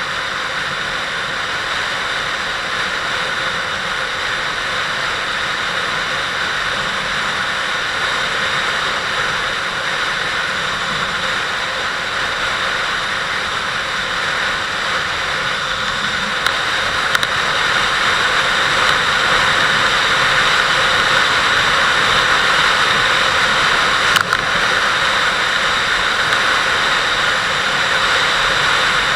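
Kawasaki Vulcan 800 V-twin motorcycle under way: steady wind rush over the camera mixed with engine and road noise. It grows a little louder about two-thirds of the way in, with a couple of brief clicks.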